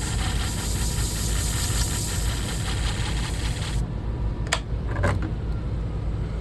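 Motorized flat sharpening disc running, with a shear blade ground against the abrasive disc for about four seconds. The grinding then stops, the motor hum runs on, and two sharp clicks follow about a second apart.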